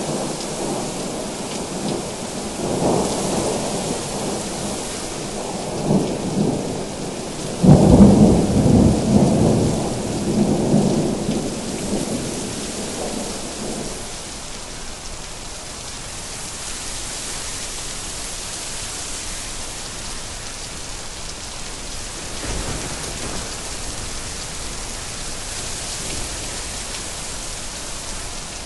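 Thunderstorm: steady rain with rolling thunder. A loud thunderclap breaks about eight seconds in and rumbles away over several seconds, leaving the rain alone with a fainter rumble later on.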